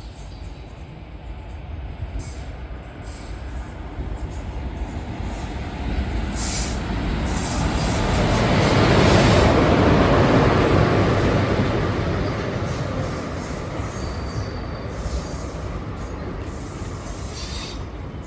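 A train passing close by on the rails: the rolling noise of wheels and coaches builds up, peaks about halfway through and fades away again.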